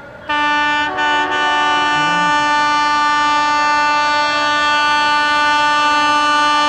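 Shatabdi Express locomotive's air horn sounding one long, steady blast, starting with a short blip that breaks just before a second in and then held.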